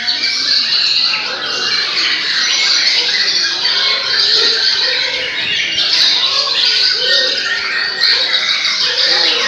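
Several white-rumped shamas (murai batu) singing at once in a dense, unbroken chorus of overlapping whistles, trills and chatter.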